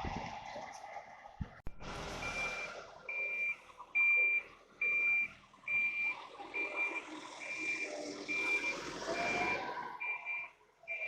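Vehicle reversing alarm beeping at an even pace, a little more than one beep a second, over a running engine. The beeping starts about two seconds in.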